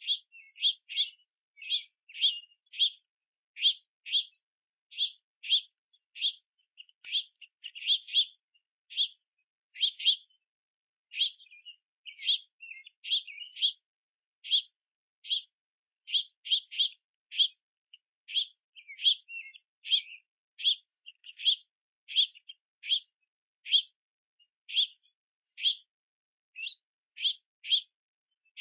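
Juvenile house finches giving begging calls: short, high chirps repeated steadily, roughly one or two a second, without a break. These are fledglings calling to be fed by their parents.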